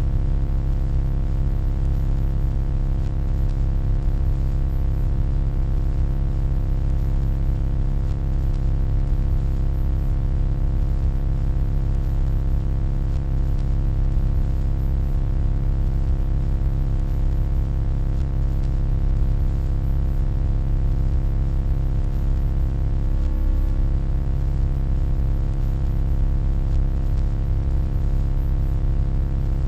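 Steady low electronic hum with many overtones, holding an even level throughout, with a brief faint wavering about two-thirds of the way through.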